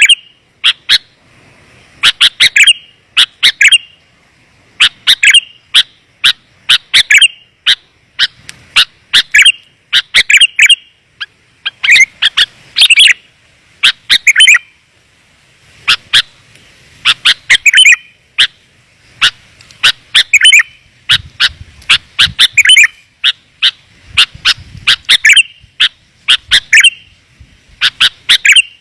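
Sooty-headed bulbul (kutilang) lure call: short bursts of rapid, sharp chirping notes, repeating about every second and a half.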